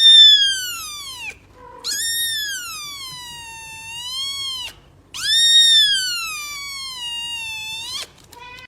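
A cat, most likely a kitten, gives three long, high-pitched meows, each sliding down in pitch. The first is short, and the next two last about three seconds each, with the pitch wavering in the middle.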